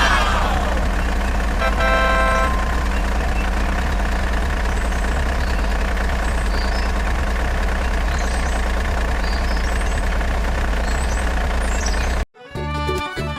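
Truck engine running steadily with a deep, even rumble, and a short horn blast about two seconds in. Near the end it cuts off abruptly and music starts.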